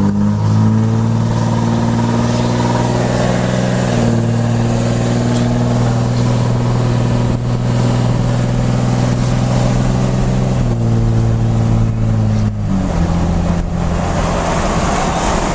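5.9 Cummins inline-six turbo-diesel in a Ram 2500 running under load through a 4-inch straight pipe: a loud, deep, steady exhaust drone. Its pitch steps up about four seconds in, then drops twice near the end.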